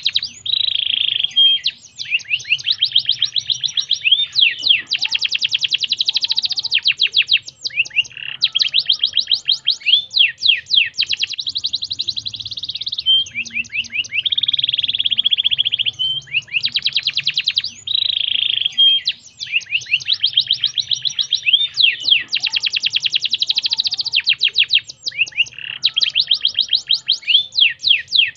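Domestic canary singing without pause: long, rapid trills and rolling phrases follow one another, broken by short whistled notes.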